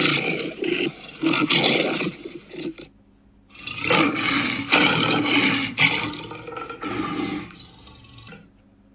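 Lion roaring, in two stretches broken by a short pause about three seconds in.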